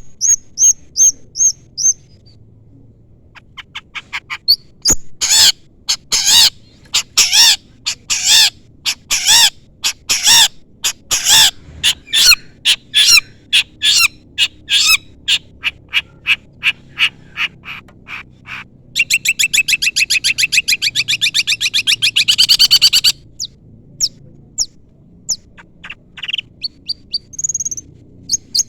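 Long-tailed shrike (cendet) calling in a series of sharp, harsh chirps, a few per second, with a brief pause about two seconds in. Near the middle it breaks into a rapid rattling trill for about four seconds, then goes back to scattered short notes. These are chirps that call out to a rival.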